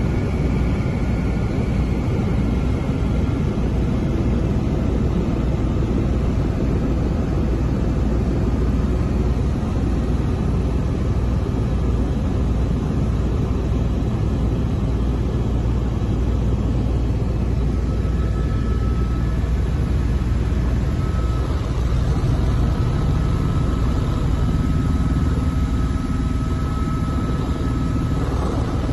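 Écureuil helicopter in steady cruise: a loud, unbroken rumble of turbine and rotor, heard from inside the cabin, with a few faint steady tones above it.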